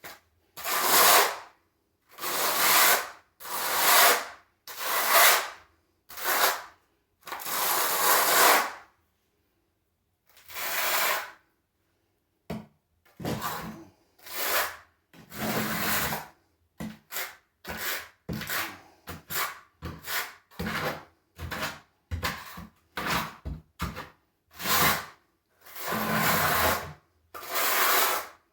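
Trowel scraping as thin-set mortar is spread, in repeated strokes. The strokes are about one a second at first, with a pause a little before halfway, then come shorter and quicker, about two a second.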